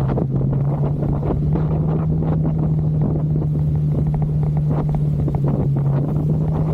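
Motorcycle engine running at a steady cruising speed, its hum holding an even pitch, with wind buffeting and crackling on the microphone.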